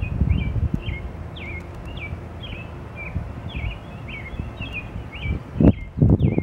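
A songbird repeating a short, sharply falling chirp about twice a second, over a low outdoor rumble, with a few louder low thumps near the end.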